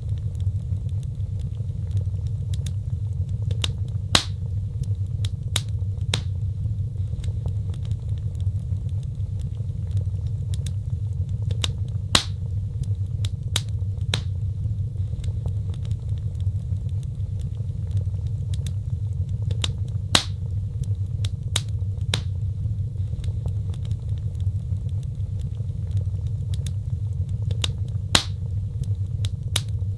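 Wood fire burning in a fireplace: a steady low roar with sharp crackles and pops scattered irregularly throughout, a few of them louder.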